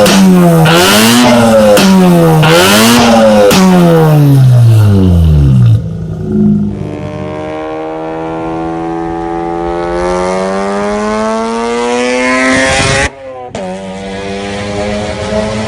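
Mazda RX-8's 13B Renesis rotary engine revved hard several times, the pitch sweeping up and falling back. After a cut, the revs climb slowly and steadily, then another cut leads to a steadier engine note near the end.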